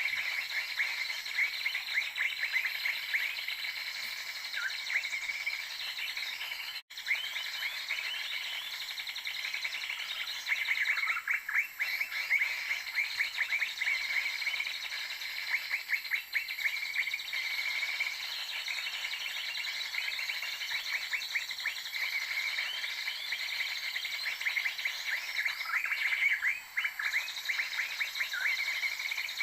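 Birds chirping: fast runs of short, high chirps repeating almost without pause, cutting out for an instant about seven seconds in.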